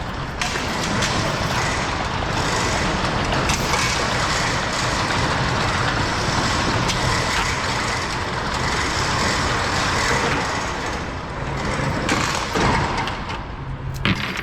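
A roll-up door being raised. A steady mechanical noise starts about half a second in and dies down after about twelve seconds.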